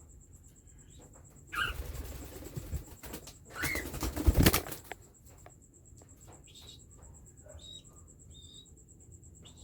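Cockatiels flapping their wings in two noisy bursts, about a second and a half in and again about three and a half seconds in, followed by a few short, high chirps.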